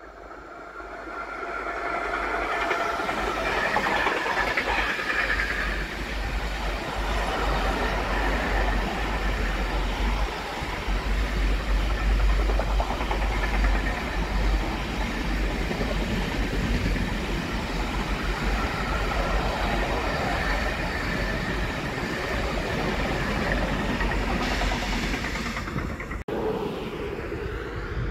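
Container freight train passing at speed: the locomotive and a long string of loaded container wagons rumble by, swelling over the first two seconds, holding steady, then fading near the end. A steady-pitched whine rides over the rolling noise in the first few seconds.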